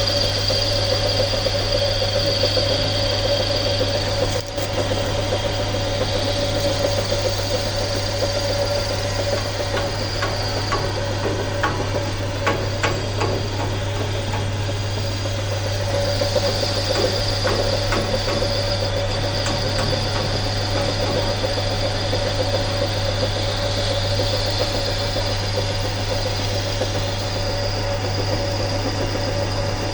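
A workshop machine running steadily with a constant hum and whine, and a scattered run of light clicks and knocks around the middle.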